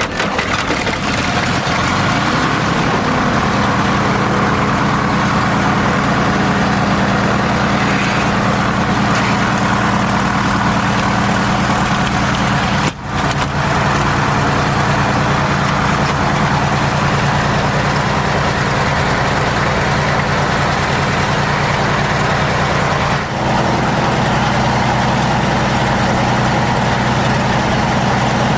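Zlin Z-226MS's six-cylinder Walter piston engine running steadily in flight, a loud continuous drone whose pitch settles within the first couple of seconds. The sound dips briefly about halfway through.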